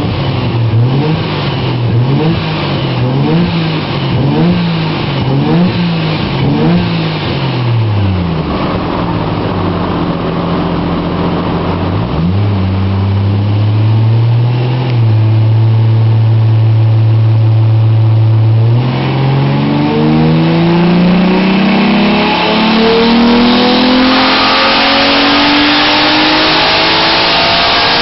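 Toyota 1JZ straight-six with a single turbo and upgraded cams, revved in quick throttle blips about once a second, then dropping back before being held at a steady speed. About two-thirds of the way in it starts a long full-throttle dyno pull, the pitch climbing steadily with growing turbo and exhaust hiss.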